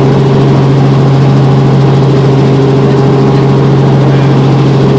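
Helicopter running steadily: a loud, even drone with a strong low hum and no change in pitch.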